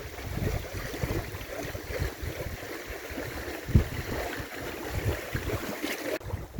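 Wind buffeting the microphone in uneven low gusts over a steady hiss of rain.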